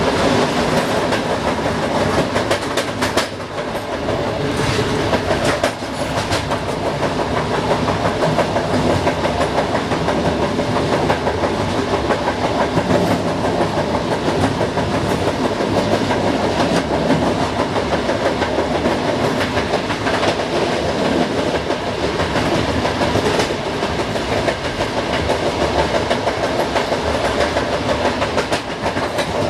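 Passenger train running at speed, heard from inside the rear cab: a steady rumble of steel wheels on the rails with clickety-clack and occasional sharp clacks of the wheels over rail joints.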